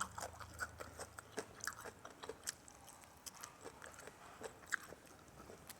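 Faint chewing and crunching of food, with small irregular crunches and mouth clicks.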